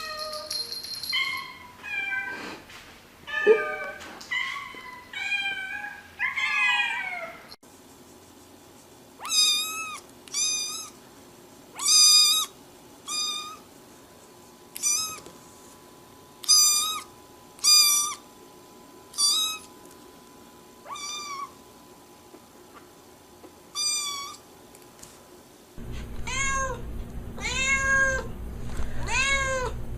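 Cats meowing over and over, each meow a short arching call. In the middle stretch a high-pitched meow comes roughly once a second; near the end a lower meow repeats faster over a steady hum.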